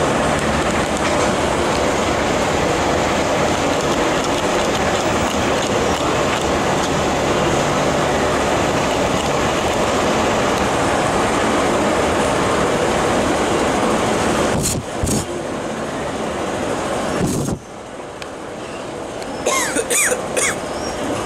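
Loud, steady rumble of a metro train running through the underground station. It weakens about fifteen seconds in and drops sharply a couple of seconds later, then returns, with a few clicks and short high squeals near the end.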